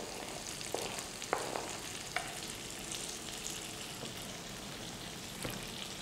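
Hot oil and spices sizzling steadily in a kadai as cut ivy gourd pieces are tipped in, with a few sharp knocks in the first two seconds.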